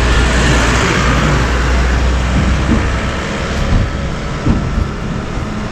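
Motor vehicle engine running close by: a steady low drone with a hiss, loudest over the first two or three seconds, then easing off.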